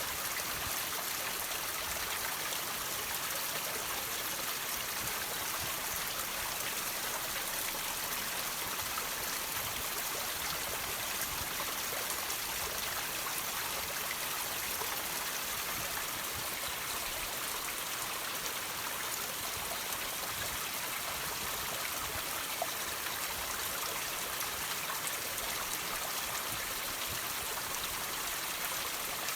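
Water trickling and dripping off rocks: a steady hiss of running water with faint scattered drips, and one slightly louder drip near the end.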